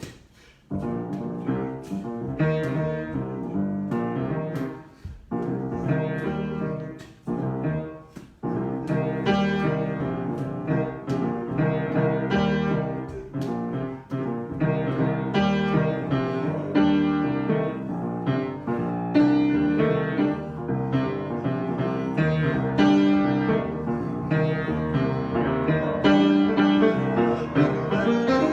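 Solo piano improvisation: chords and melody played freely. There are a few short breaks in the first eight seconds, then steady, fuller playing.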